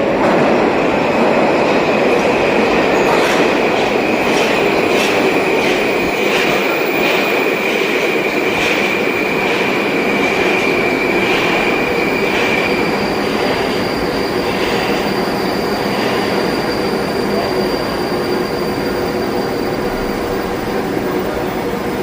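Moscow metro train running along the station platform, its wheels clicking over rail joints with a steady high wheel squeal. The clicks come further and further apart, so the train is slowing down, and the squeal fades out about two-thirds of the way through.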